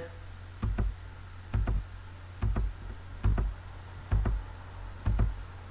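Regular low thumps, each a quick double stroke, repeating a little under once a second over a steady low hum.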